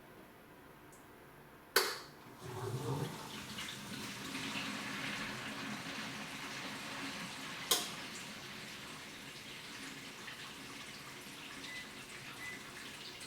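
Water running steadily, starting about two seconds in after a sharp click, with a second sharp click near eight seconds.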